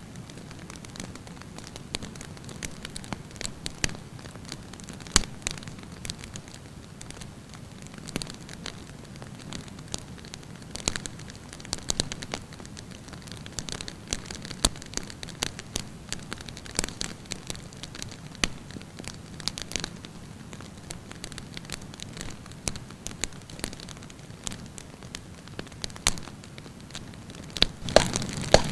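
Wood campfire burning, with a steady low rumble and frequent irregular crackles and sharp pops of burning wood, a cluster of louder pops near the end.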